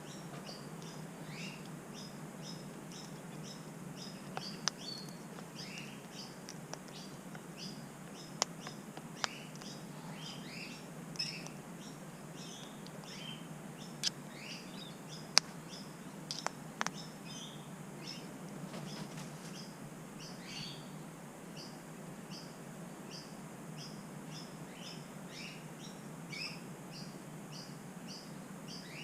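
Small birds chirping steadily in the background, short high chirps about twice a second with occasional falling calls, over a low steady hum. Sharp clicks or taps stand out several times in the middle of the stretch.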